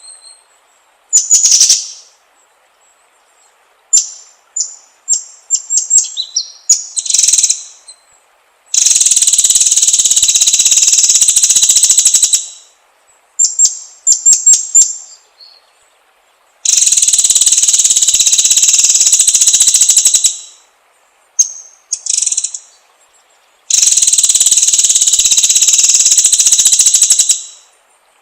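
White-rumped shama (murai batu) song: clusters of short high whistles and chirps alternating with three long, loud rapid buzzing trills of about three to four seconds each.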